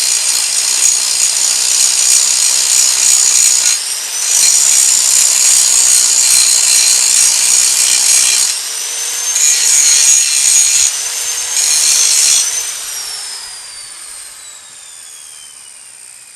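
Angle grinder grinding metal, a loud high whine with gritty noise that starts suddenly and jumps in pitch as the disc bites and eases off, in long spells and then short bursts. About twelve seconds in it is switched off, and its whine falls steadily as the disc spins down.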